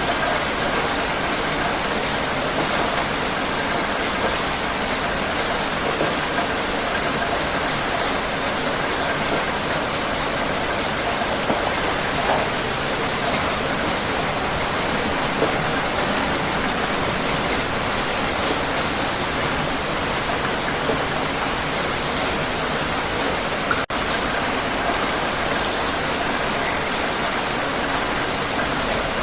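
Heavy rain falling steadily: a dense, even hiss of drops on surfaces with scattered splashes, broken once late on by a split-second dropout.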